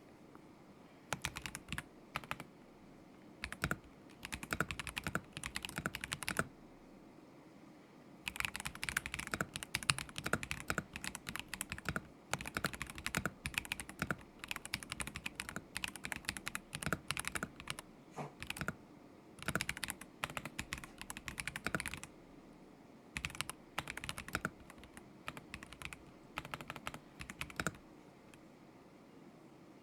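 Typing on a KZZI K75 Pro mechanical keyboard with Moment linear switches: rapid keystrokes in bursts separated by short pauses, the longest run going on for over ten seconds, then stopping near the end.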